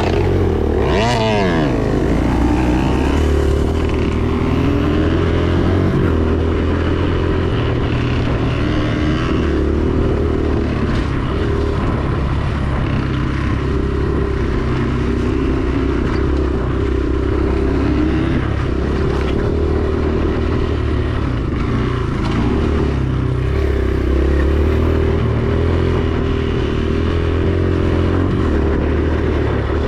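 Dirt bike engine running under way, revving up sharply about a second in, then holding a fairly steady note that shifts up and down with the throttle.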